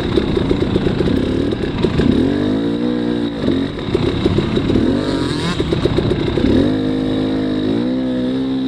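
A 300cc dirt bike engine revving up and down in short bursts under throttle, choppy at first, then holding longer, steadier rising revs near the end. This is stop-and-go riding through mud on a Rekluse automatic clutch.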